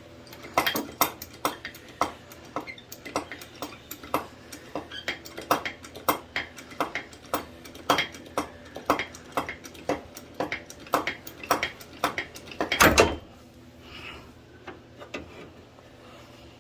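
Sharp metallic clicks, about two to three a second, from tool work bending a crumpled car radiator support back into shape. About thirteen seconds in there is a louder metal clatter.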